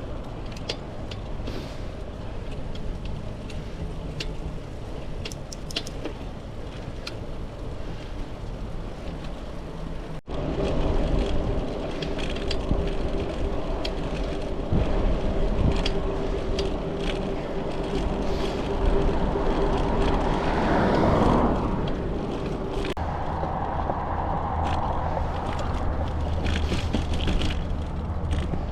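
Road noise from a bicycle ride: tyres rolling on pavement and wind on the microphone, with scattered light clicks. About ten seconds in the sound changes abruptly to a louder rumble carrying a steady hum.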